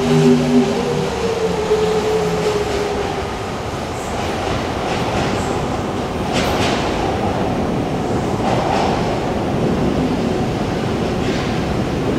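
Osaka Subway 70 series linear-motor train running on the track. A motor whine rises slightly and fades over the first few seconds, then steady wheel-rolling noise continues, with a few clicks as the wheels pass rail joints.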